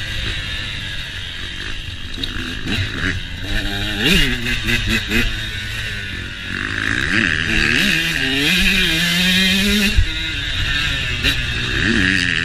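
Motocross dirt bike engine revving up and down repeatedly as the throttle is opened and closed on the ride, with a longer held high rev towards the end.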